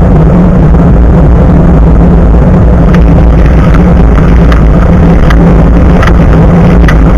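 Loud, steady rumble of wind and road noise on an action camera's built-in microphone mounted just above a bicycle's front tyre while riding. From about three seconds in, sharp clicks and rattles come through at irregular intervals.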